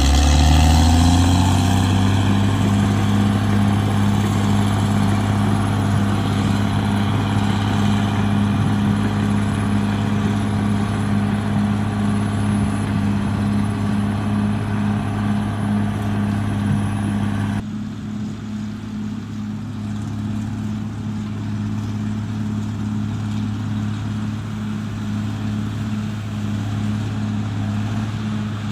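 Diesel engine of a heavy earthmoving machine running hard. It rises in pitch in the first second, then holds a steady drone. Well past halfway it cuts abruptly to a slightly quieter, steady engine sound.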